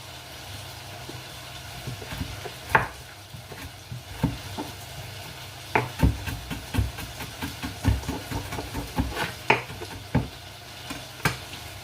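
Chicken pieces frying in oil in a pan with a steady light sizzle, under irregular sharp knocks and taps from kitchen utensils.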